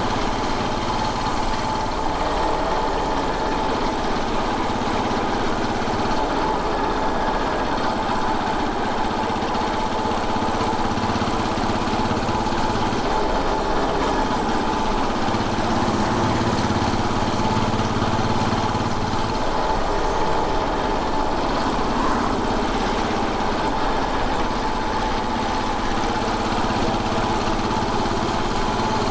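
Royal Enfield Bullet 500's single-cylinder four-stroke engine running steadily on the move, its note shifting a little with engine speed.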